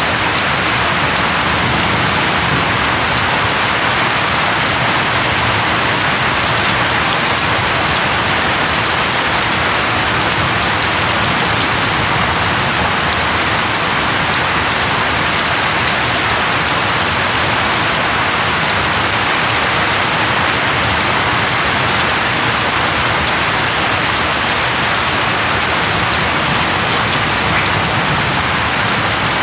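Steady rain falling, an even, dense hiss of many drops that holds level throughout.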